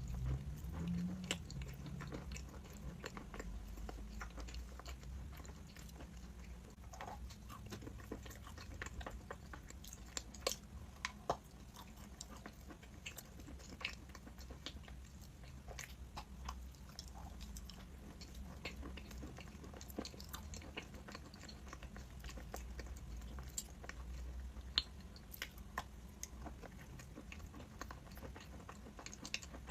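A person biting and chewing crunchy chalk, with many irregular small crunches and clicks throughout.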